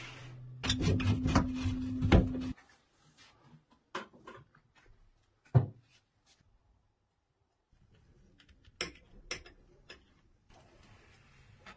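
A small motor hums steadily, runs louder for about two seconds with rattling, then cuts off. Scattered knocks and clicks of parts being handled follow, with quiet gaps between.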